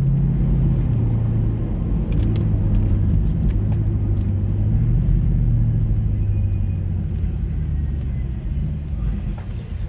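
Car exhaust through a Flowmaster 50 muffler, heard inside the cabin while driving: a steady low drone whose pitch eases down about a second in and then wavers gently.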